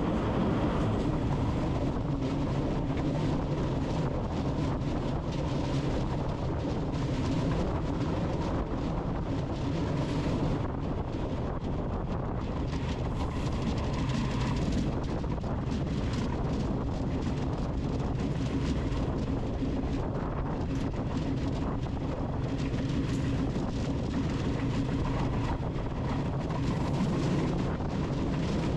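A train running along the track: a steady low rumble with many small clicks from the wheels and rails.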